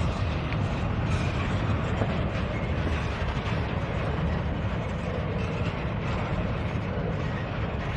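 Loaded double-stack intermodal well cars rolling past: a steady rumble of steel wheels on rail with a few faint clicks.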